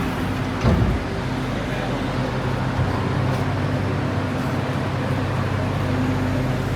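Steady rumble and low hum inside a Ho Chi Minh City Metro Line 1 train car, with a brief knock about a second in.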